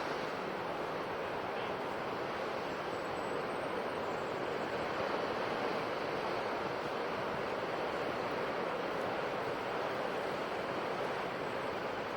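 Ocean surf washing on a shore, a steady, even rush of waves with no distinct swells or breaks.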